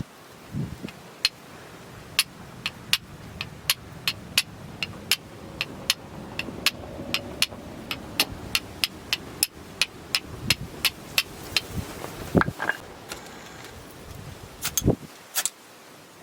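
Wood fire crackling with irregular sharp pops, two or three a second, and a few louder knocks now and then.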